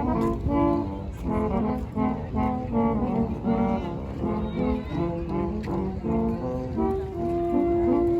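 Brass music: a quick melody of short notes, ending on one held note about seven seconds in.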